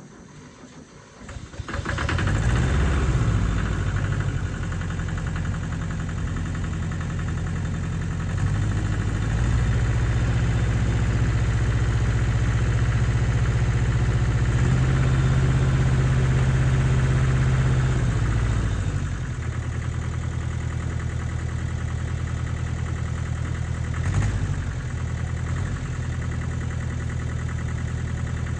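Allis-Chalmers 5030 tractor's engine firing up easily, catching within a second or two, then running steadily. The engine speed is raised for several seconds in the middle and drops back to idle, with a short rev about three-quarters of the way through.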